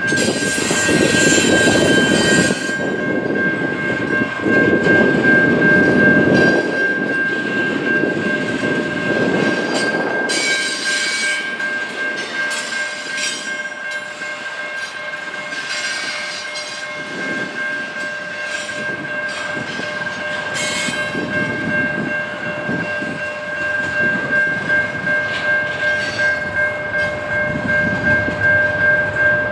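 A train rolling past, its wheels rumbling and clattering over the rails, with a steady high-pitched tone held throughout and a rhythmic clickety-clack near the end.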